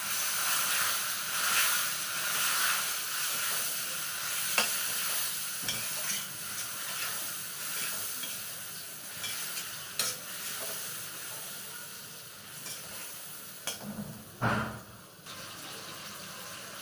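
Chopped tomatoes sizzling in hot oil and spices in a steel kadhai, stirred with a wooden spatula that scrapes and taps the pan now and then. The sizzle slowly dies down, and there is a louder knock near the end.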